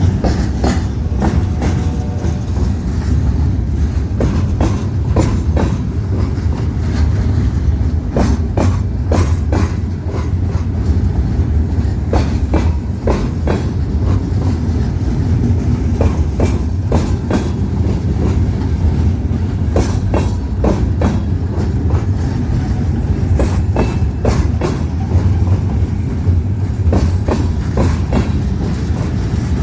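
Train rolling past at close range: a steady low rumble with wheels clicking over the rail joints again and again.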